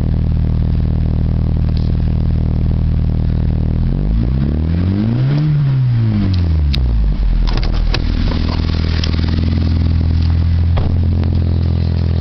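2006 Honda Civic's four-cylinder engine idling on its stock exhaust, blipped once about four seconds in, the revs rising and falling back to a steady idle by about seven seconds.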